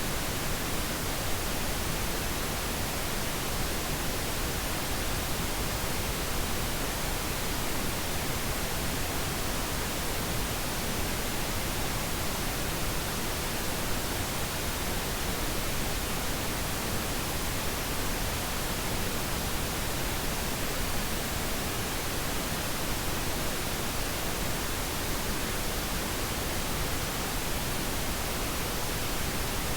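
Steady, unchanging pink noise: an even hiss spread across all pitches, used as a sleep aid.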